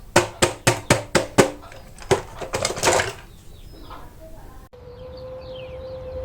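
Plastic toy packaging being handled: a quick run of sharp clicks and taps, then three more spaced clicks about two to three seconds in. After a cut near the end, a faint steady hum.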